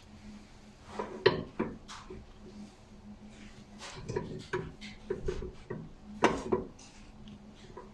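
Irregular clinks and knocks of brake pads and caliper parts being handled while a pad is fitted into a rear brake caliper. The two sharpest knocks come about a second in and again near the six-second mark.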